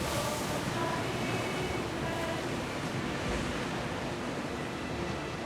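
Sea waves and wind making a steady noise, heard from aboard a ship under way, with faint short tones scattered on top.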